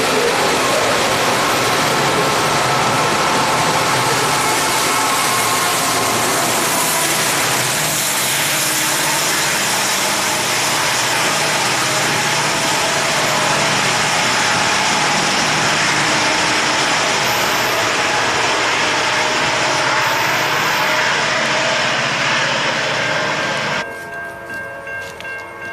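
Freight train rolling past at close range: a loud, steady rush of railcar wheels on the rails, with faint thin squealing tones running through it. It cuts off abruptly near the end, leaving a much quieter sound with a few steady tones.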